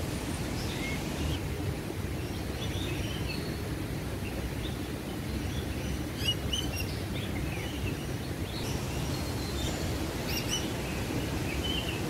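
Several small birds chirping, short high calls scattered throughout, with one slightly louder chirp about six seconds in, over a steady low rumble.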